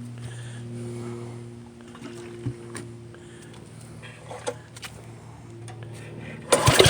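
A steady low hum with a few light knocks, then near the end a small gasoline engine suddenly cranks and fires roughly and loudly, trying to run on gasoline vapour instead of liquid fuel.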